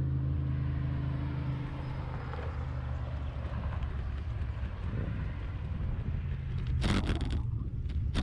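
A motor engine running with a steady low hum, a little louder for the first couple of seconds. A short burst of rushing noise comes about seven seconds in.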